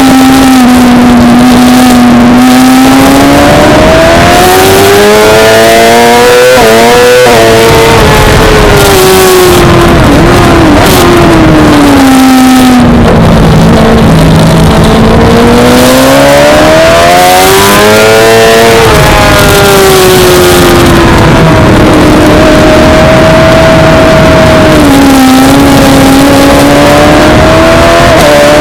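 Suzuki GSX-R600 inline-four race bike engine at high revs on track. It climbs in pitch through the gears with quick dips at each shift, falls away as it slows for a corner, and pulls up again twice, holding steadier for a few seconds later on.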